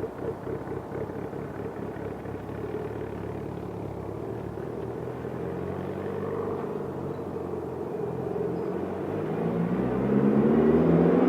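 Mitsubishi Lancer Evolution VIII's turbocharged 4G63 four-cylinder, breathing through a 3-inch RSR ExMag exhaust with Kelford 272 cams, running steadily at low revs. Near the end it revs up, rising in pitch and getting louder.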